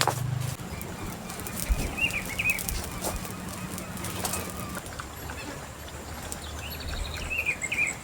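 Birds calling in short chirps, a cluster about two seconds in and another near the end, over scattered clicks and light rustling.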